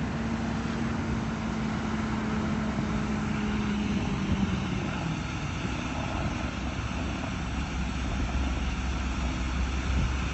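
Truck engine and boat motors running together under load, hauling a boat up a slippery ramp. A steady engine tone fades out about halfway through, and a deeper engine drone builds near the end.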